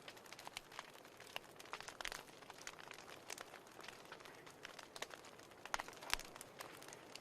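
Wood fire in a fireplace crackling: a steady scatter of small irregular pops over a faint hiss, with two louder snaps a little before the end.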